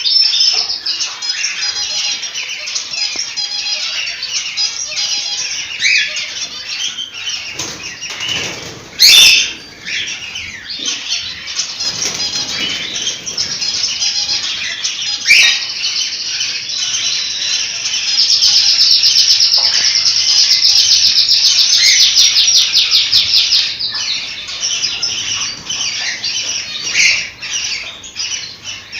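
A flock of cockatiels chirping and whistling continuously, with a louder stretch of fast chattering song from about 18 to 24 seconds in. Two sudden loud bursts break in, one about 9 seconds in and another around 15 seconds.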